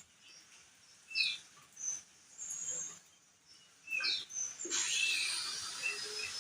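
Crested darkeye (opior jambul) giving short, high chirps, a few falling in pitch, spaced out at first with a brief lull in the middle, then coming more thickly in the last two seconds.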